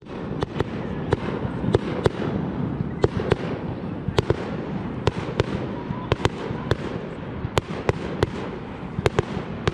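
Fireworks display going off: sharp cracks and bangs several times a second at irregular intervals, over a continuous dense crackle and rumble from many shells bursting at once.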